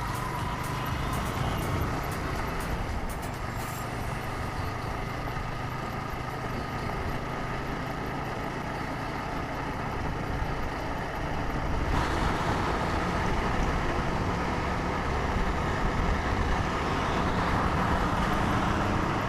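Motorcycle engine running at road speed, a steady drone mixed with road and traffic noise. It gets louder about twelve seconds in.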